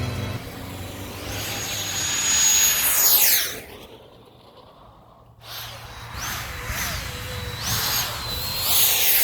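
Electric ducted-fan jet on an RC car, a high whine that builds as the car approaches and drops in pitch as it passes, about 3 s in. The sound cuts out abruptly for about a second and a half, then the fan whines again with its pitch wavering under the throttle and makes another falling-pitch pass near the end.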